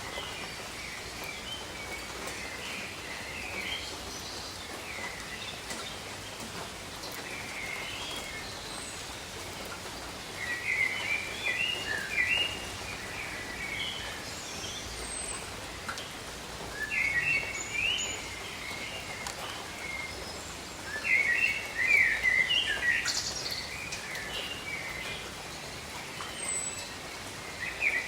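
Steady rain falling on jungle foliage, an even hiss, with birds calling in several bouts of quick chirps over it. The bird calls are loudest about three quarters of the way through.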